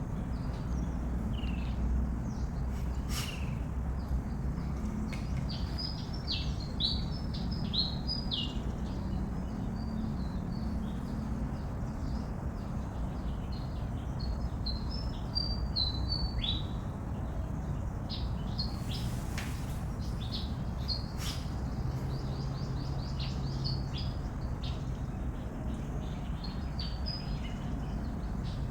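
Birds chirping: many short, high chirps and calls keep coming throughout, over a steady low rumble, with a couple of sharp clicks.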